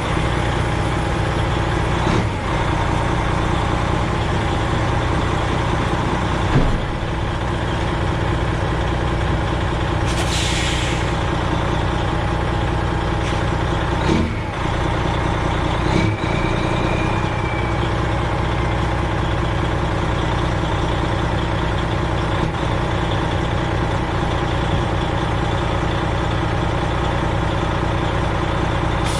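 Freightliner Classic XL semi truck's diesel engine running with a steady drone. A few knocks and rattles sound over it, and there is a brief hiss of air about ten seconds in.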